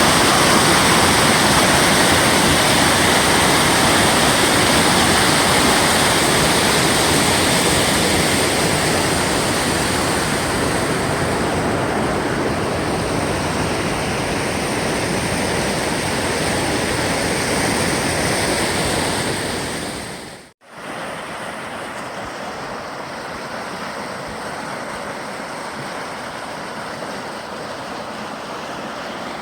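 Steady rushing of a waterfall's falling water, a dense even roar. About 20 seconds in it cuts off abruptly and gives way to a quieter steady rush.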